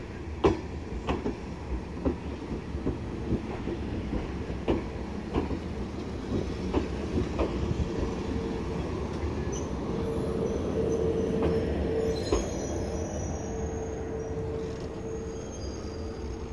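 Yoro Railway electric train pulling into a platform: its wheels click over the rail joints at a slowing, even beat, then give a steady squeal as it slows to a stop. A single thump comes about twelve seconds in.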